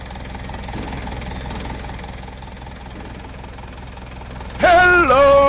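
Small engine running steadily with a fast, low chugging. About four and a half seconds in, a loud high-pitched voice calls out over it.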